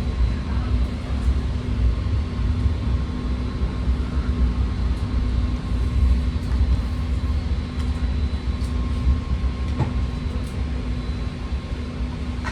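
BART train car heard from inside the cabin: a steady low rumble with a constant electrical hum, easing slightly near the end.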